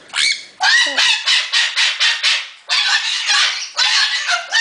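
Pet cockatoo screaming: runs of rapid, harsh, loud calls, about five a second, with short breaks between runs. It is a contented scream, a happy bird's noise rather than a distressed one.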